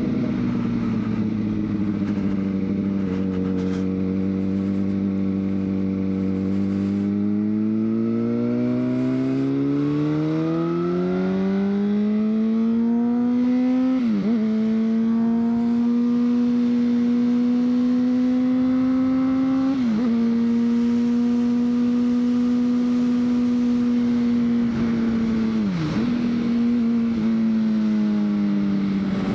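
2003 Honda CBR600RR's inline-four engine under way: the note holds steady, climbs in pitch over several seconds as the bike accelerates, then holds higher with three brief dips in the note about six seconds apart.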